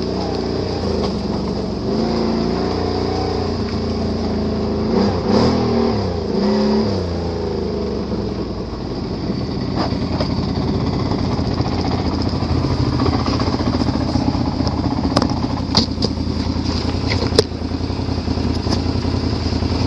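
ATV engine running while riding offroad, its pitch rising and falling with the throttle over the first several seconds, then holding steadier. A few short sharp knocks come through in the second half.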